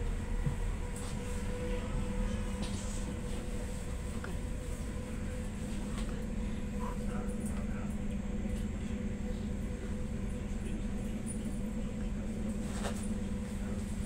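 Stadler FLIRT ER160 electric multiple unit running between stations, heard from inside the passenger car: a steady low rumble with a constant hum, and a few faint clicks.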